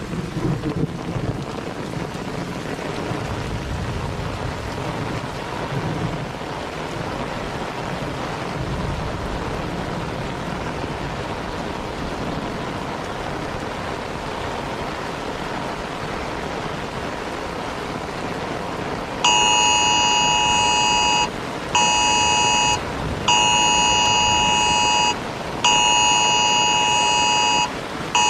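Steady rain, with low thunder rumbling early on. About 19 seconds in, a loud two-tone alert signal starts, sounding in long blasts with short gaps between them: the Emergency Alert System attention tone that comes before an alert message.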